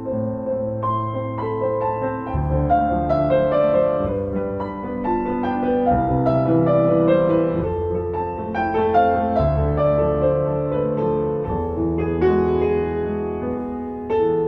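Piano playing a passacaglia: a melody of struck notes over low bass notes that change every second or two.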